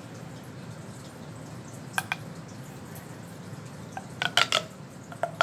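Sharp hard clicks and clinks of a fidget toy being handled: two near 2 seconds in, a quick run of four around 4 seconds, and two more near the end.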